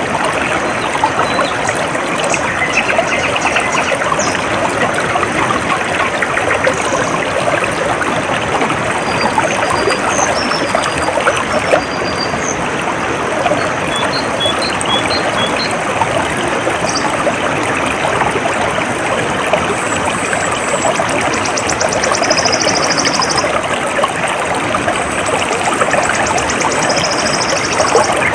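Stream water trickling and splashing steadily, with faint bird chirps and short rapid trills high above it at intervals.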